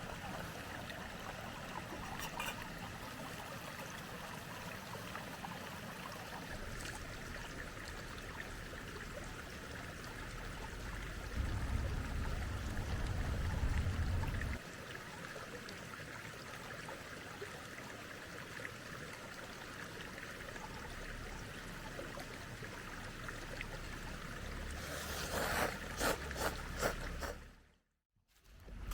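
A stream flowing steadily over rocks. About midway a low rumble lasts for about three seconds. Near the end there is a run of clicks, and then the sound cuts out briefly.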